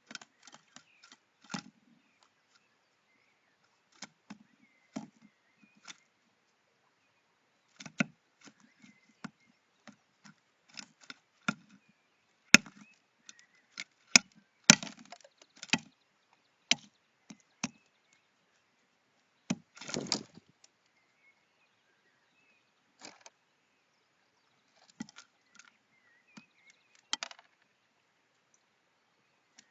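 A bird pecking and hammering on wood: irregular sharp knocks and taps, some single and some in quick runs, with a longer scraping rattle about twenty seconds in.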